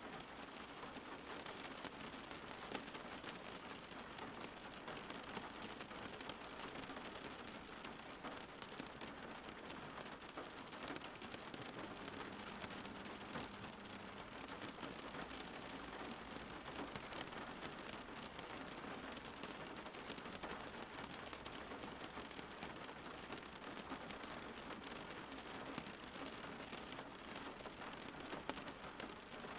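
Steady rain falling, a dense even patter of many small drops that keeps up without a break.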